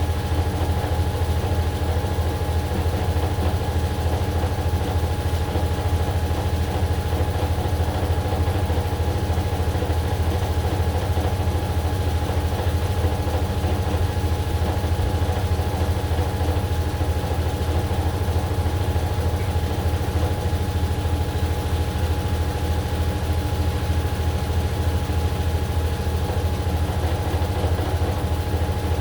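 AQUA AQW-DX12M drum washing machine running steadily with its drum turning at a constant speed, as in a spin: a steady low drone with a thin, even whine above it.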